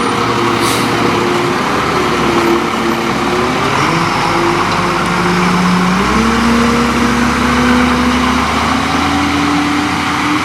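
Leach Curbtender garbage truck's diesel engine revving up, its pitch climbing in two steps a few seconds in and dropping again near the end. A short hiss of air comes under a second in.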